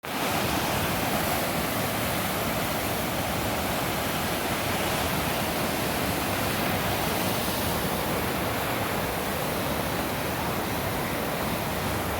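Floodwater rushing in a swollen river, a steady, even rush of water.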